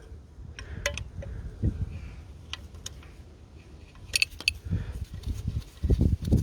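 Metal hand tools clinking and clicking against engine parts as spanners are worked on fittings, with scattered light clinks, a quick cluster about four seconds in, and low handling bumps near the end.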